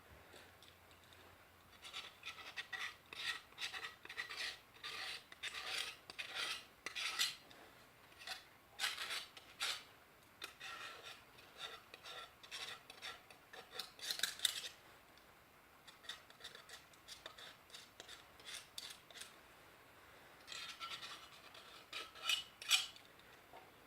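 Quick, irregular scraping strokes as softened old paint, loosened with paint stripper, is scraped off the Elna SZ 120/125 grinder's metal parts. The strokes come in runs with a couple of short pauses.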